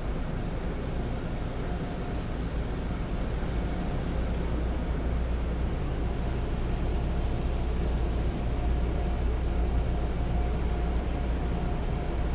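Automatic car wash equipment running, heard from inside the car: a steady rushing noise with a low rumble and a faint steady hum.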